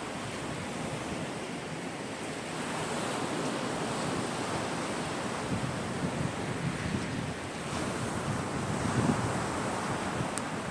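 Sea waves breaking and washing on the shore, a steady rush that swells twice as larger waves come in, with a faint sharp click near the end.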